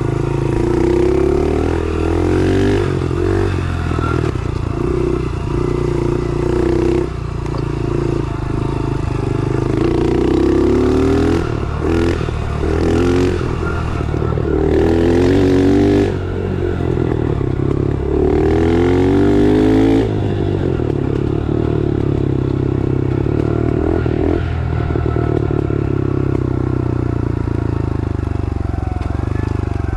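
Small-displacement pit bike engine running under load while being ridden. It revs up several times with a rising pitch, each rise cutting off abruptly, then runs more steadily for the last third.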